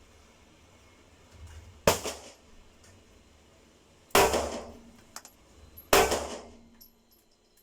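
Three gunshots at an indoor shooting range, about two seconds apart, each followed by a short ringing echo.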